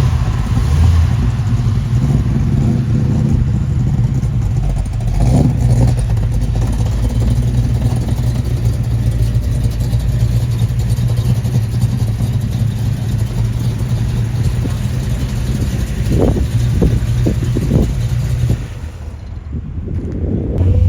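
Car engine running with a steady low rumble, with a brief rev about five seconds in and a quick series of throttle blips near the end.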